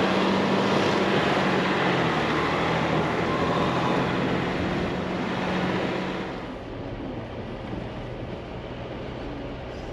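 Off-road 4x4 driving through snow: steady engine hum under loud tyre and wind noise, which drops away sharply about six and a half seconds in, leaving a quieter hum.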